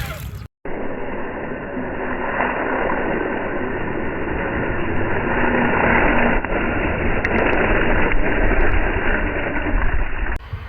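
Axial SCX6 radio-controlled crawler truck driving through mud: a steady, dull, noisy rush of its motor and drivetrain, muffled with no high end. It starts just after a short break at the beginning and cuts off abruptly shortly before the end.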